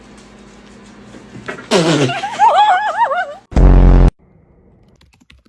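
Comedic sound effects: a pitch that slides steeply downward, then a wavering warble for about a second and a half, followed by a short, loud, low buzz that cuts off abruptly.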